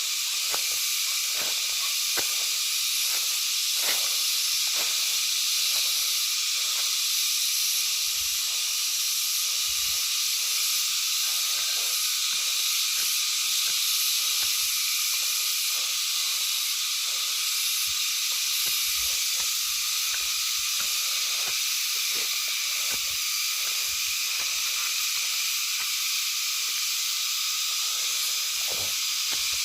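A steady, high-pitched, shrill chorus of night insects, with faint scattered clicks.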